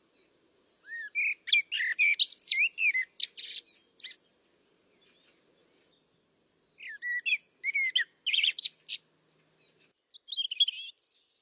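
Common blackbird singing: two rich, fluty phrases of sliding notes, each ending in higher squeaky twitters, a few seconds apart, followed near the end by a shorter, higher warbling phrase.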